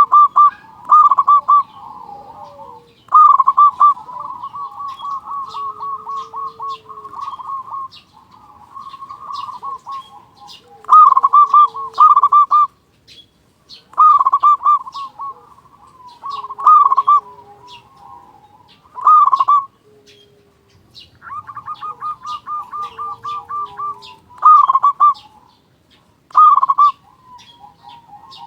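Zebra dove (perkutut) cooing: a run of loud phrases of quick staccato coos, about ten in all, with quieter rolling trills between them.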